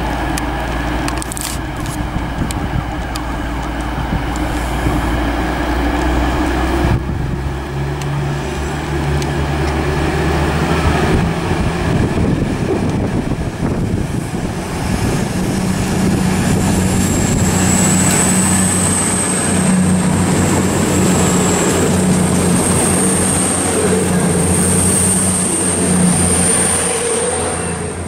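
East Midlands Trains Class 222 Meridian diesel multiple unit running in along the platform and passing close by, its underfloor diesel engines humming low and steady, then giving way to the rush of the passing train. A high thin whine rises in about halfway through and holds almost to the end.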